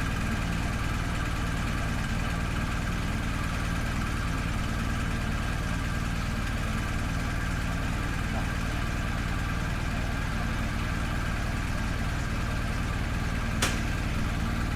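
An engine running steadily at an even speed, a constant hum. A single sharp click sounds near the end.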